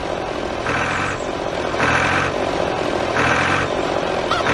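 Tractor engine running steadily while a beep sounds about every second and a half, a reversing alarm as the tractor backs up.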